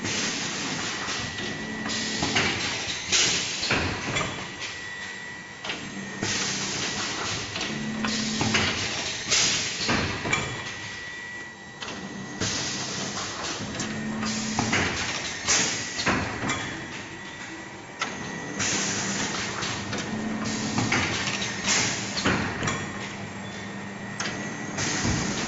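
Automatic coil-fed aluminium-foil forming, filling and sealing packaging machine running through its cycles: hissing bursts every couple of seconds, with sharp clicks and knocks, over a low hum that comes and goes and a faint steady high tone.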